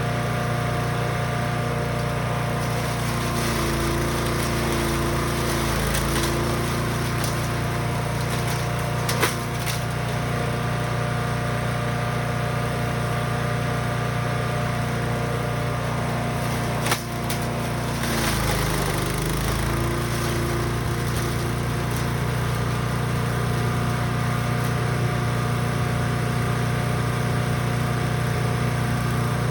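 Brush Master 3-in-1 chipper/shredder's gas engine running steadily at speed. Its pitch sags twice for a couple of seconds as it is loaded with material, and two sharp cracks come about nine and seventeen seconds in.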